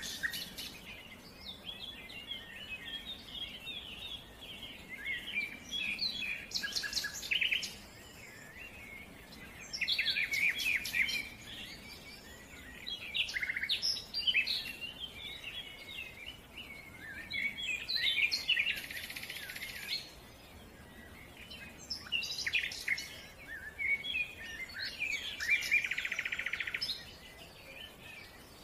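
Small birds chirping and twittering in quick bursts every few seconds, with a short raspy noise twice.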